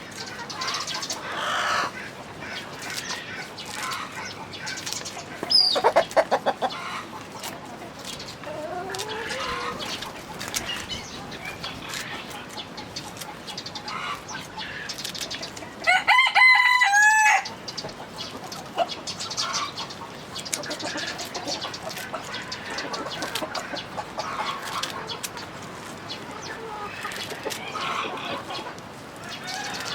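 Chickens clucking throughout, with a brief loud burst about six seconds in. A rooster crows once, about halfway through, in one long call that is the loudest sound.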